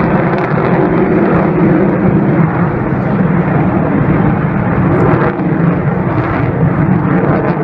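Loud, steady engine noise of a display aircraft in flight.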